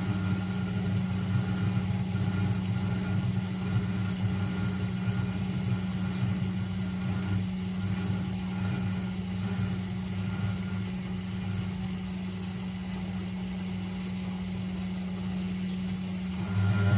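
Late-1980s Eudora Supernova EU 1001 washing machine running with a steady low motor hum. The drone eases off about two-thirds of the way through and swells back strongly near the end.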